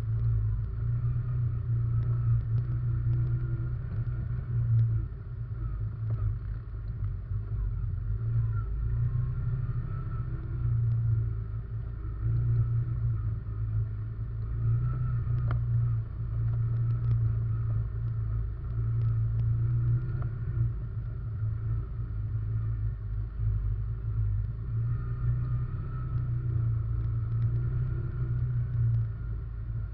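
Russian Mechanics RM 500 ATV engine running under way, heard from a camera mounted on the quad. The throttle rises and falls every second or two as it rides over rough ground, with small knocks and rattles.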